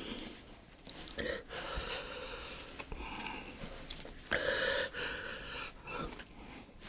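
A person gasping and breathing hard in reaction to the burn of an extremely hot chip, with a strained voiced sound about four and a half seconds in.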